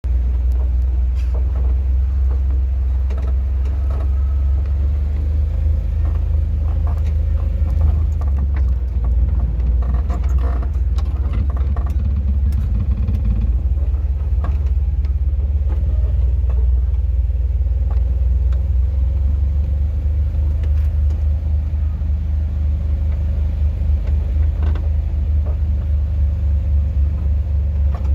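Steady low rumble of a car driving, with scattered faint knocks and clicks over it.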